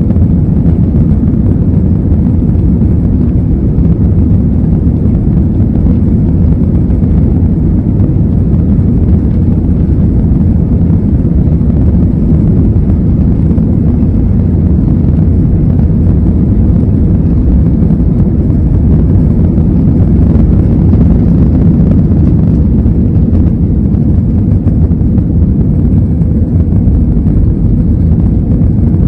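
Airbus A320 jet engines running at high power: a loud, steady noise, mostly low in pitch, that does not change.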